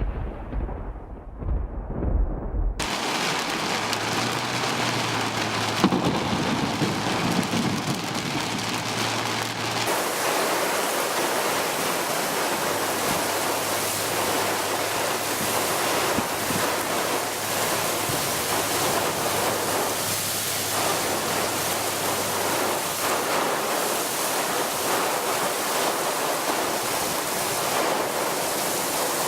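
Heavy rain pouring down in a steady, dense hiss. A low rumble, which sounds like thunder, runs for the first few seconds before the rain takes over.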